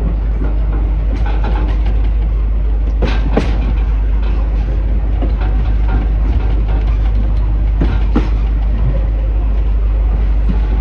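Heritage train running on the rails, a steady heavy rumble with sharp clanks, a pair about three seconds in and another pair about eight seconds in.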